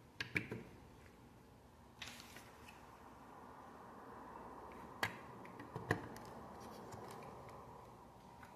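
Plastic Lego pieces being handled and pressed together: a few sharp clicks just after the start, a brief rustle about two seconds in, and two more clicks about five and six seconds in.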